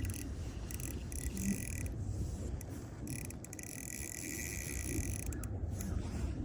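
Ice-fishing reel winding in line in stretches, with pauses, while fighting a big fish, over a low rumble of wind on the microphone.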